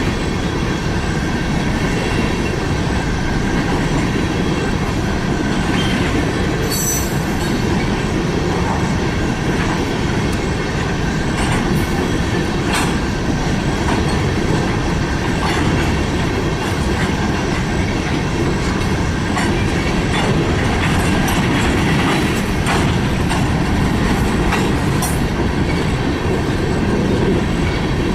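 Freight train cars rolling past, a steady rumble of steel wheels on rail with scattered clicks from the wheels over the rail joints and a thin wheel squeal over it.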